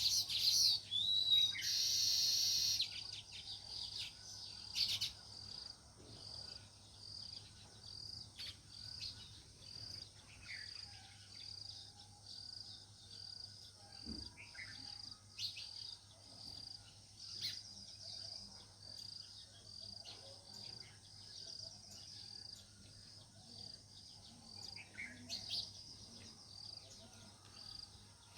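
House sparrows chirping: a loud burst of chirps in the first few seconds, then scattered single chirps. Underneath, a steady high-pitched pulse repeats about once or twice a second.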